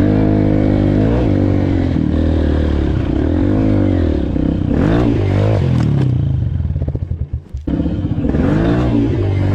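Dirt bike engine revving up and down under hard throttle over rough ground, with clattering about halfway through; near the two-thirds mark the engine drops briefly to a low, uneven chug before it picks up and revs again.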